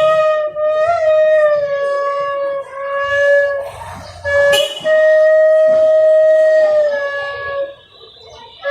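A flute playing a slow melody of long held notes close together in pitch, with short gaps between phrases.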